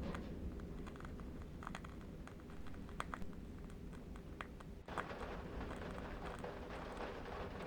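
Ambience of a low, steady wind rumble with scattered small crackles and clicks, like a burning candle wick. Just before five seconds in the sound briefly drops out, then comes back as a denser crackling hiss.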